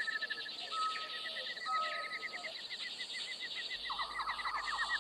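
Tropical rainforest ambience of birds calling over a high insect trill: a fast repeating chirp throughout, two held whistled notes in the first couple of seconds, and a rapid run of notes starting near the end.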